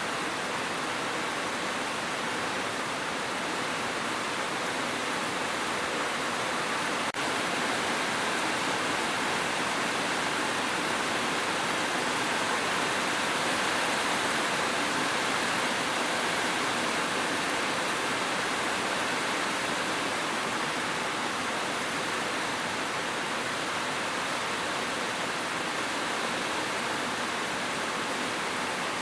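Steady heavy rain: an even, continuous hiss of falling water with no single drops standing out. There is a brief dip in level about seven seconds in.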